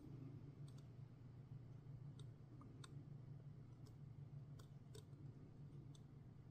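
Near silence: a steady low room hum with faint, scattered small clicks, about one every second or so.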